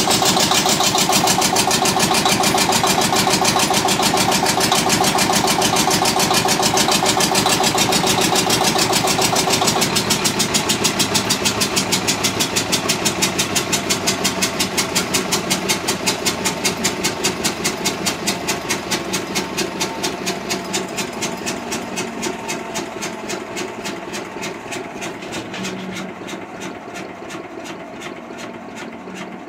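Witte diesel generator engine running with a fast, even firing beat, then slowing and fading from about ten seconds in as it is shut down. It is on its first run in 45 years and was shut down for not building oil pressure.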